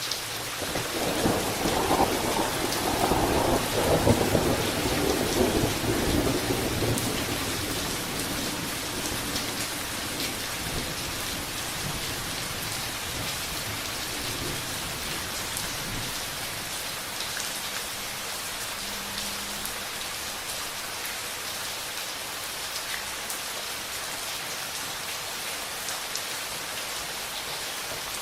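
Steady rain falling, with a roll of thunder in the first few seconds that fades away, leaving the rain.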